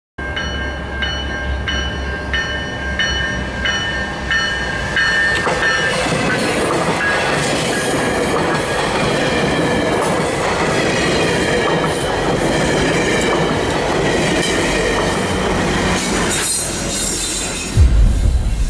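A GO Transit bilevel commuter train going by: a repeated ringing tone about twice a second for the first few seconds, then the steady rushing and rolling noise of the passing train, with a sudden loud low rumble near the end.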